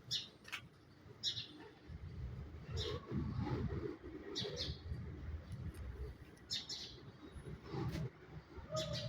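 Birds chirping, short high calls every second or two, over a low rumble that grows louder about two seconds in.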